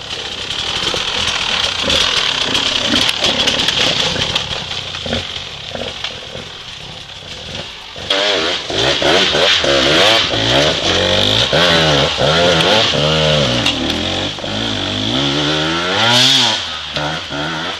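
Dirt bike engine running, then from about halfway through revving up and down again and again, with one last high rev near the end.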